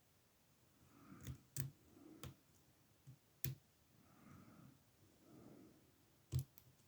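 Lock picks working in a padlock's oval pin-tumbler cylinder: a handful of faint, irregular metal clicks and taps, the loudest near the end.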